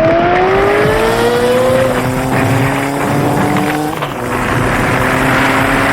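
Snowmobile engine revving up as it pulls away, its pitch rising over the first two seconds and then holding steady. It drops out briefly about four seconds in and picks up again, with a rushing noise growing louder underneath.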